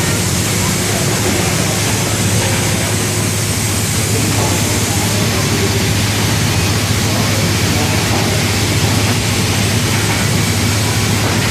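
Steady, loud machinery noise in the engine room of the steam sternwheeler Natchez, with a constant low hum under it.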